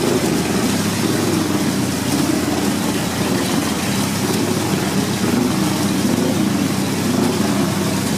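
Vintage racing car engine running steadily at idle, loud and close.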